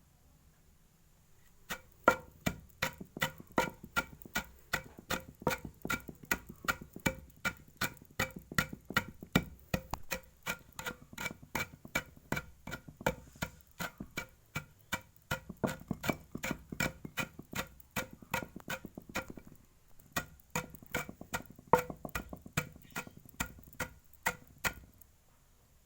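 Pigeons pecking dried rice grains from a hard feeding dish: a long run of quick, sharp taps, several a second, with a brief pause partway through.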